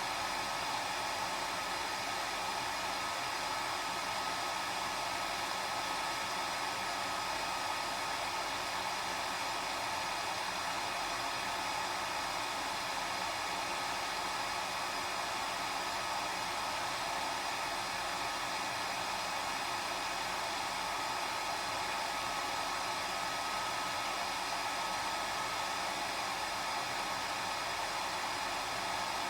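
Hair dryer blowing continuously: a steady, unchanging rush of air with a faint high whine from the motor.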